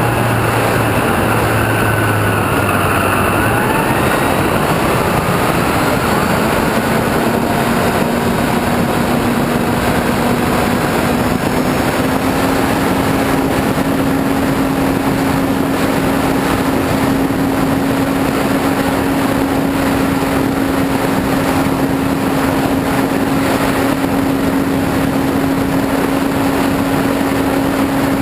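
RC airplane's motor and propeller droning under a heavy rush of wind over the onboard camera; the motor's pitch rises a little about six seconds in and then holds steady.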